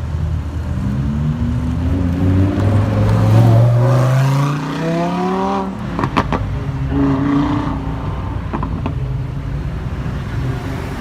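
Supercar engine accelerating hard, its note climbing steadily for about five seconds before cutting off abruptly with a few sharp cracks. A brief second burst of revs follows, with a couple more cracks.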